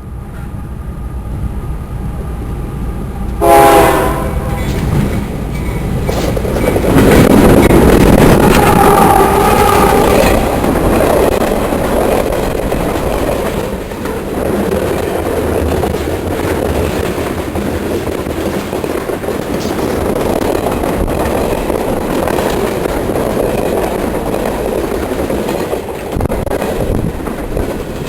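A train horn gives a short blast about three seconds in. Then a train passes close by, its wheels rumbling and clattering on the rails, loudest for a few seconds and continuing steadily after.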